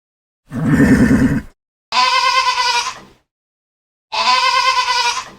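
Three bleats, each about a second long: a lower, rougher one about half a second in, then two higher, quavering ones.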